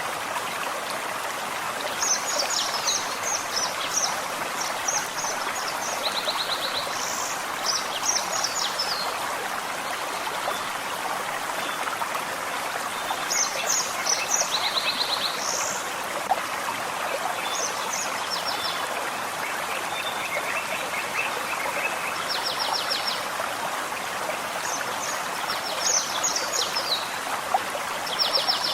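A forest stream running steadily over stones, with small songbirds singing short phrases of rapid high notes every few seconds above the water.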